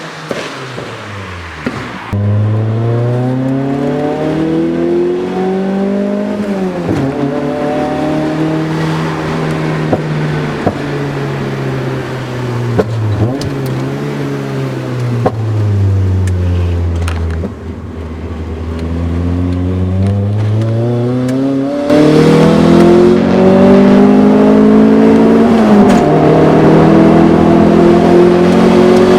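Proton Wira's 4G93 MIVEC 1.8 four-cylinder engine pulling under acceleration through a 2.5-inch exhaust, its pitch climbing and dropping sharply at gear changes, then falling slowly as the car slows before climbing again. Much louder from about two-thirds of the way through.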